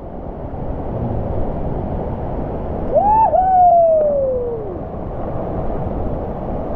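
Rushing water of a waterfall, loud and steady, with a person's single long scream about three seconds in: it jumps up in pitch, then slides slowly downward as the jumper drops toward the water.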